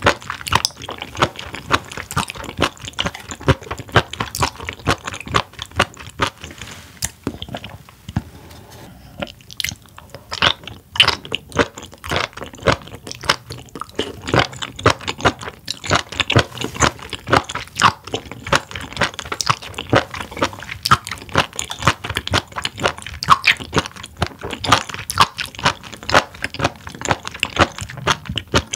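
Close-miked chewing of raw spoon worm (gaebul), a rapid run of wet, crunchy bites and chews, with a brief lull about eight seconds in.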